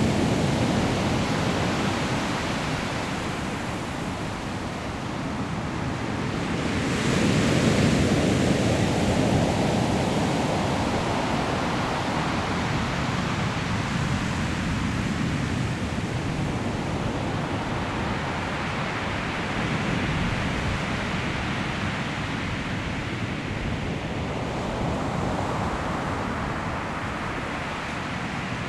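Sea waves breaking and rolling on a pebble beach, a continuous rush of surf that swells and eases. The biggest wave breaks about seven seconds in, with smaller surges later, and wind runs underneath.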